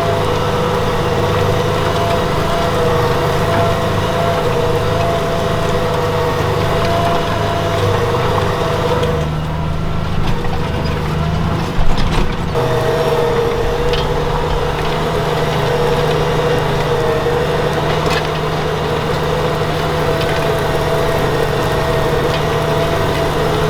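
Valtra T191 tractor's six-cylinder diesel engine running steadily under load while pulling a plough, with a steady whine over a low drone. A single sharp knock sounds about halfway through.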